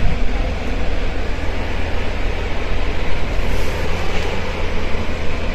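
Interior running noise of a Nagoya subway 2000 series train: a steady, loud rumble of wheels and motors in the tunnel as it travels between stations.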